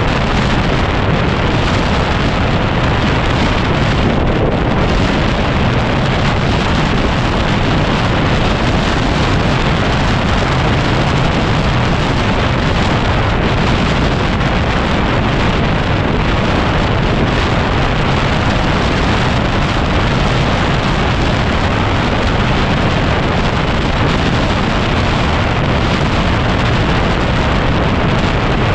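Heavy, steady wind noise buffeting the microphone of a moving motorcycle, a 2010 Yamaha WR250R, drowning out its engine.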